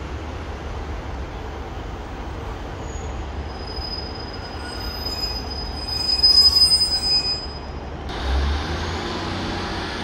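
Class 150 diesel multiple unit drawing into the platform, its engine rumbling low and steady. Its brakes give a high, steady squeal from about four seconds in, loudest around six to seven seconds, that stops about eight seconds in as the train halts.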